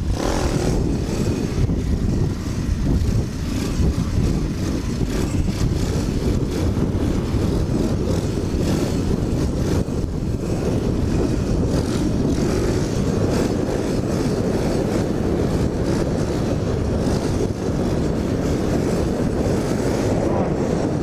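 Chinese pit bike's small single-cylinder engine running steadily while ridden, mixed with wind rushing over the head-mounted microphone.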